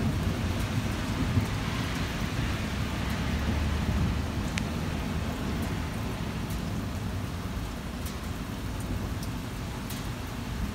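Heavy rain falling steadily, with the low rumble of thunder fading away over the first few seconds.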